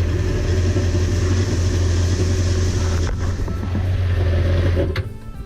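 Yamaha 190 FSH jet boat's inboard engine running at a steady idle to fill the new oil filter after an oil change, with a strong low hum. It drops away about five seconds in.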